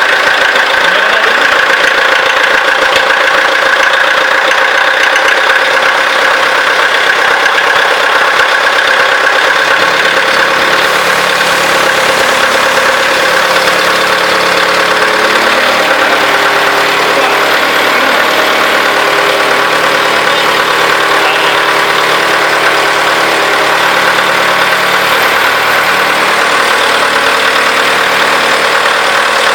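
Perkins L4 four-cylinder four-stroke diesel engine running steadily and loud, its tone shifting about ten seconds in.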